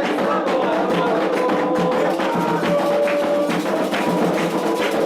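Candomblé ritual music: voices singing long held notes over steady hand-drum and percussion strikes.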